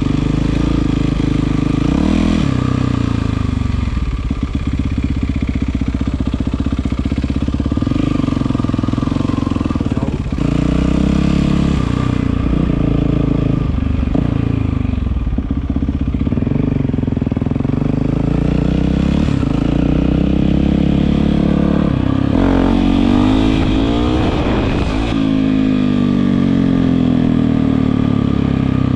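Yamaha WR450F single-cylinder four-stroke dirt bike running through an Akrapovič exhaust, its revs rising and falling again and again. About three quarters of the way through there is a run of quick throttle blips.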